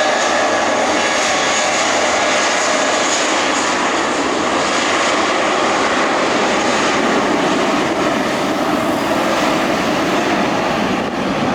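Jet airliner's engines roaring loud and steady as it passes. A faint whine sits over the roar for the first few seconds, and the deeper rumble grows stronger after about six seconds.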